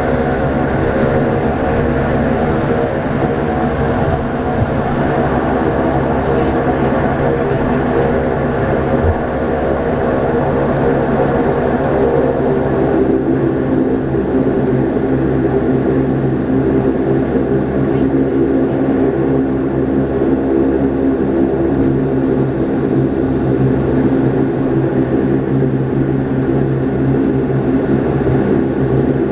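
Saab 340B's twin GE CT7 turboprop engines and propellers droning steadily in flight, heard from inside the cabin as a loud, continuous hum with layered steady tones. About halfway through, the blend of tones shifts slightly.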